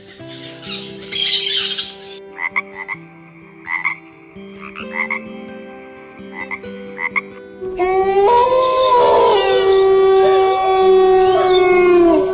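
An animal calling: a run of short, evenly repeated calls, then one loud, long call with a rich pitch that drops at the very end.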